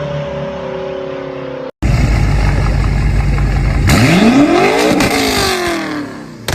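BMW X5 M (F85) twin-turbo V8 with a Stage 2 tune, its exhaust running loud with a deep rumble. About two seconds in, the engine note climbs sharply under hard acceleration as the car passes, then drops away.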